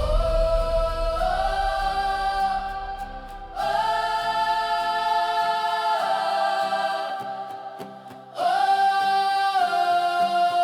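Choir singing long, held notes in a hymn interlude, in three swelling phrases that each fade before the next begins.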